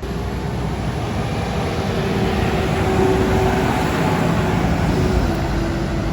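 Vintage tractor engines running, loud and steady.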